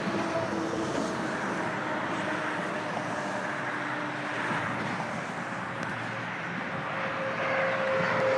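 Airplane flying over: a steady rushing rumble with a faint held whine, swelling a little near the end.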